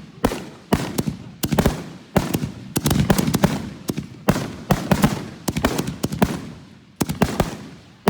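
Consumer fireworks finale: a rapid run of aerial shots bursting, sharp bangs a few per second, each trailing off in crackle.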